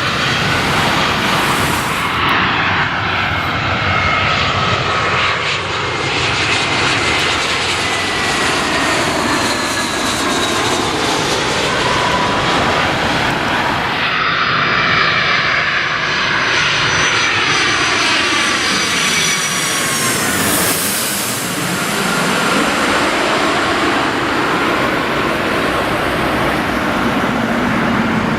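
Jet airliners passing low overhead with a loud, steady jet engine noise. Whining fan tones fall slowly in pitch as each aircraft goes by, and the sound changes abruptly twice, about 2 and 14 seconds in.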